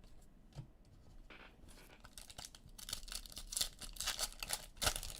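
Foil wrapper of a trading card pack being torn open and crinkled, a rapid crackling that starts about a second in and grows louder.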